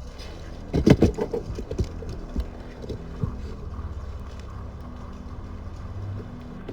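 A quick cluster of sharp knocks about a second in, then a few single knocks, over a steady low hum.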